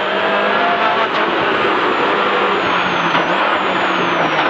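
Toyota Celica GT-4 ST165's turbocharged 2.0-litre four-cylinder rally engine running hard at steady revs under acceleration, heard from inside the stripped cabin along with loud tyre and road noise.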